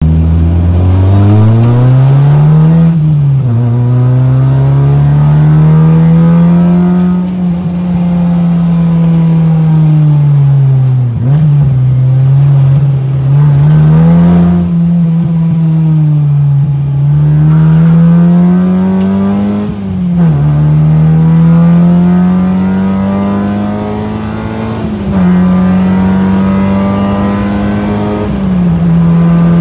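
Honda Civic hatchback engine heard from inside the cabin, driven hard on a race track. The note climbs steadily through each gear and drops sharply at each upshift, about five times, and sags a couple of times where the car eases off for corners.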